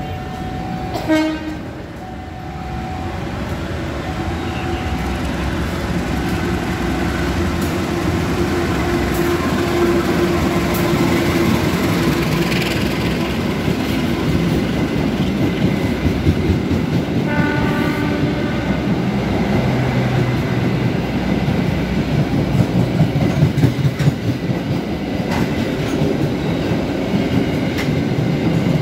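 Diesel-hauled passenger train running through a station at speed without stopping. A short horn blast sounds about a second in, then a rumble that grows louder as the locomotive and carriages pass. The wheels clatter over the rail joints, the clatter thickening in the later part.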